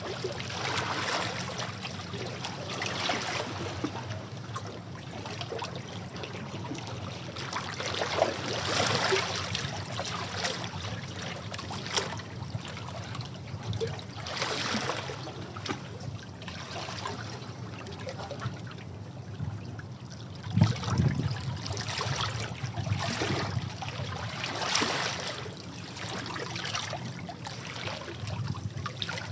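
Sea waves washing over rocks: rushing, splashing water that swells and ebbs every few seconds, with the strongest surge a little over two-thirds of the way through.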